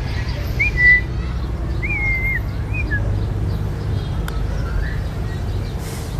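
Indian ringneck parrot giving a few short whistled chirps, the loudest about a second in, over a steady low rumble.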